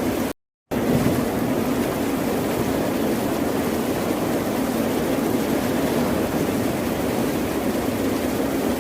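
Ocean surf washing in a steady, unbroken noise. It cuts out completely for about a third of a second just after the start, then resumes.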